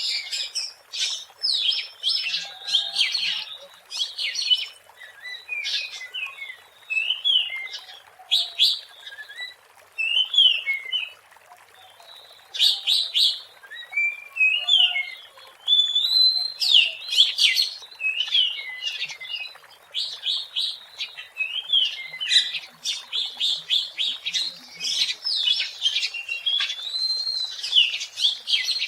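Oriental magpie-robin singing a long, varied run of whistled phrases and sharp chattering notes, with a brief pause about twelve seconds in.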